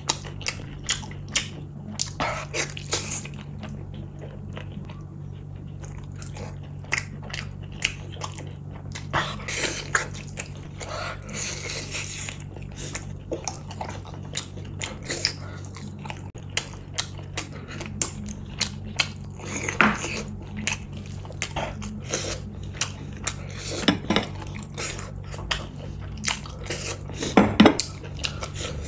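Close-miked mukbang eating sounds: wet chewing and lip smacking of rice, beef and chilli gravy eaten by hand, with many quick mouth clicks and a few louder wet smacks, the loudest near the end.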